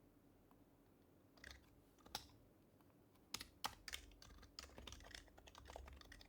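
Typing on an HHKB Professional HYBRID Type-S keyboard with its silenced Topre switches, quiet overall. A few keystrokes come a second or so in, then a quick run of keystrokes fills the second half.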